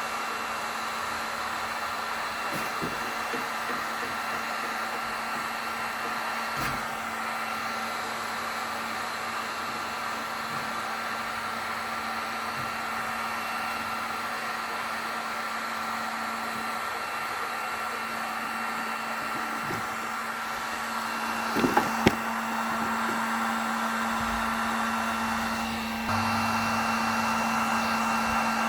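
Electric heat gun running steadily, its fan blowing with a steady hum, used for stripping paint from furniture. A few light knocks come through, and it gets a little louder near the end.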